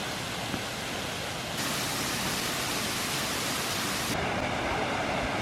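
Steady rushing noise of flowing water from a creek or falls, changing abruptly in tone about a second and a half in and again about four seconds in.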